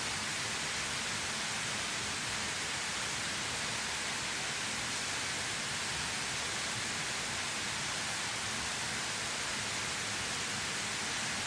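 Waterfall pouring steadily: an even, unbroken rush of falling water, bright and hissy rather than deep.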